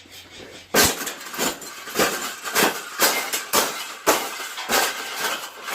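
Metal wire cage clanking and rattling as it is knocked and worked, with sharp knocks about twice a second.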